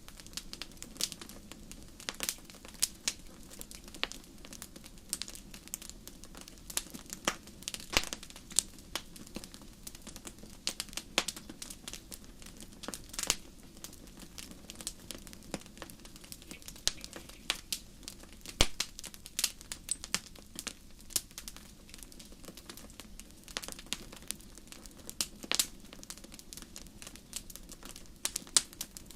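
Wood fire burning in a fireplace: irregular crackles and sharp pops over a steady low hiss.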